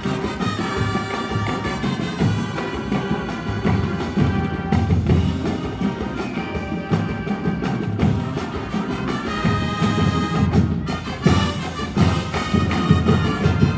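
College marching band playing a jazz number: sustained brass chords over drums. A run of loud accented hits comes in the last few seconds.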